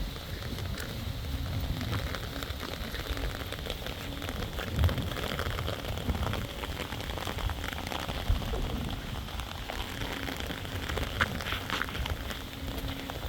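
Heavy rain falling steadily during a thunderstorm, with a few sharper knocks about five and eight seconds in.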